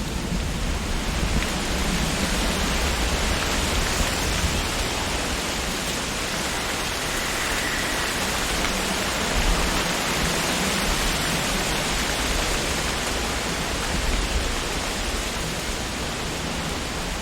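Wind blowing through tree leaves: a steady rustling hiss that swells and eases a little, with a low rumble of wind underneath.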